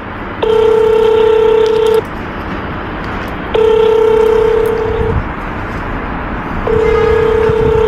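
Phone ringback tone of an outgoing call: a steady low beep heard three times, each lasting about a second and a half, with background street noise between them. The call is ringing unanswered.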